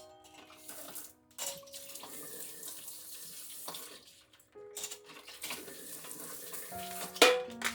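Water running from a kitchen tap into a sink, dropping away briefly around the middle, with soft background music underneath. A sharp knock comes near the end.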